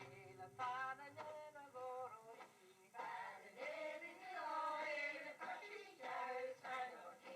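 Faint, wordless singing voices with pitch sliding up and down, in short phrases. The last held note of the song's accompaniment dies away in the first second.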